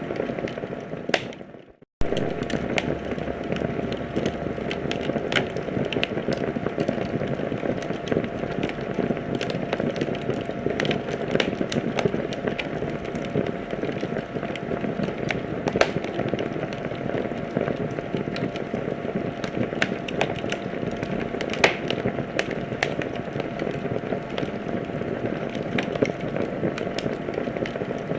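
Wood fire crackling in a fireplace: a steady hiss and rustle of burning with frequent sharp pops and snaps. Shortly before two seconds in the sound fades out to silence and then cuts straight back in.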